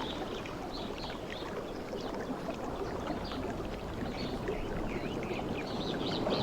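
Sea waves washing in, a steady rush of surf that swells louder near the end, with many short high bird calls over it.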